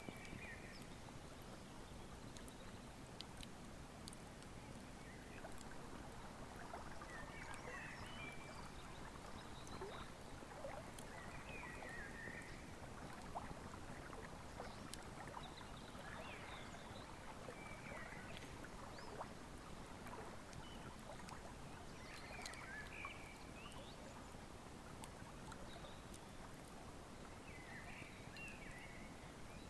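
Wood fire crackling with scattered sharp pops over the steady rush of a flowing river, faint, with a bird calling briefly every few seconds.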